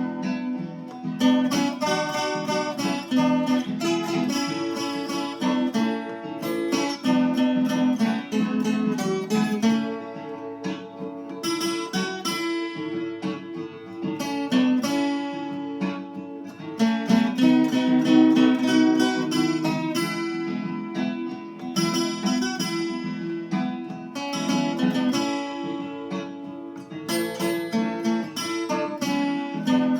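Viola caipira playing a hymn melody solo, with plucked and strummed notes on its steel strings and no voice.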